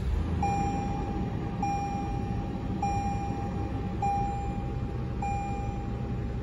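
A 2022 Toyota 4Runner's 4.0 L V6 idling just after a push-button start, with a dashboard chime repeating about once every second and a bit, five times.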